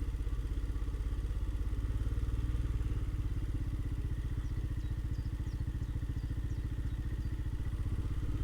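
Royal Enfield Himalayan's single-cylinder engine running steadily as the motorcycle is ridden along, its exhaust beat an even, rapid pulse.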